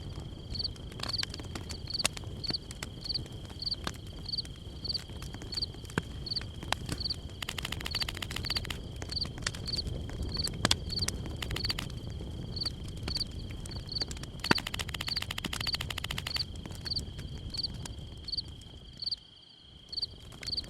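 Outdoor chirping ambience: a steady high chirping that repeats about twice a second, with two stretches of fast trilling, scattered sharp clicks and a low rumble underneath.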